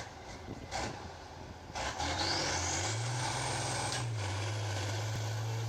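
A truck's engine revs up about two seconds in, with a brief rising whine, and then runs steadily at raised revs. A few knocks come before it.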